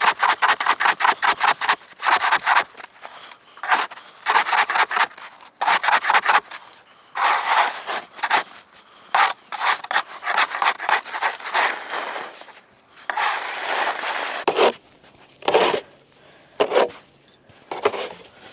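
Snow being scraped off pond ice in runs of quick strokes, several a second, broken by short pauses and a few longer drawn-out scrapes.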